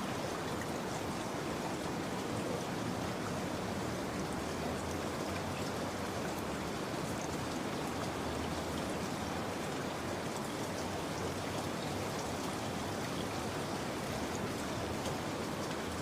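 Steady rain: a dense, even patter with scattered single drops ticking over it.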